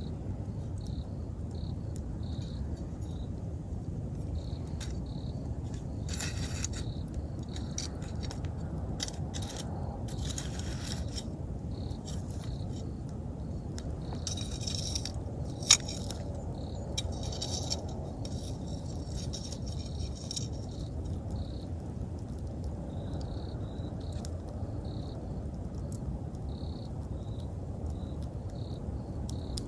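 Wood fire crackling and popping over a low steady rumble, with spells of denser crackle and one sharp, loud snap about halfway through. Autumn insects chirp in short, evenly repeated high pulses behind it.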